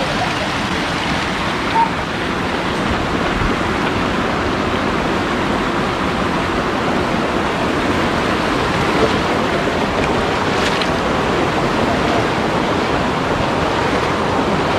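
Mountain valley stream rushing steadily over rocks, a constant even rush of water.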